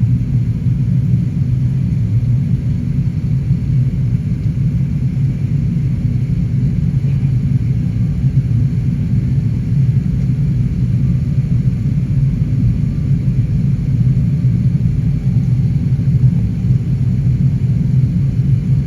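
Airbus A380 cabin noise: a steady low rumble of engines and airflow that holds even throughout, with no change in pitch or level.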